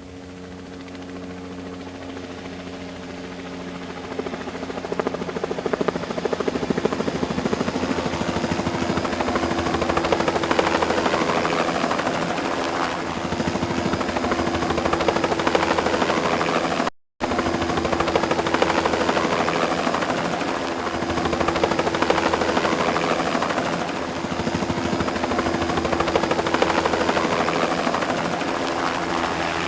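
Helicopter running, its rotor and engine heard as a steady noise with a few held tones, growing louder over the first five seconds. The sound drops out for a moment about seventeen seconds in.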